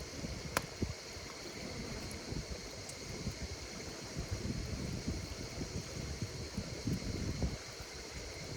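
Campfire burning with a low, flickering rumble and one sharp crack of wood about half a second in, over a steady high chorus of insects chirping.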